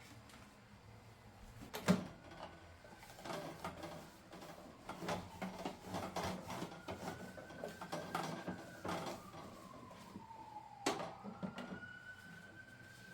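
Knocks and clatter of household objects being handled, two sharper knocks standing out, with a thin whining tone that slowly rises and falls in pitch.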